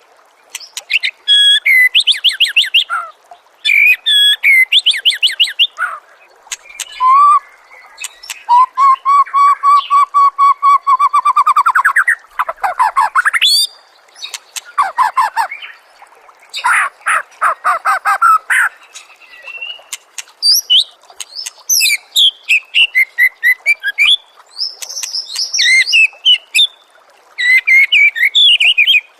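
White-rumped shama (murai batu) singing a long, varied song of short phrases one after another: fast rattles, trills and clear whistles with brief pauses between them. About eight seconds in comes a long even trill that climbs in pitch at its end.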